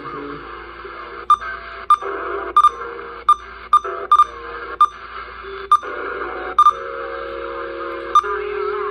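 Key beeps from a Uniden Bearcat 980 SSB CB radio as its buttons are pressed: about a dozen short beeps at uneven intervals, sometimes two close together. Under them runs the radio's steady receiver static, with shifting held tones from the speaker.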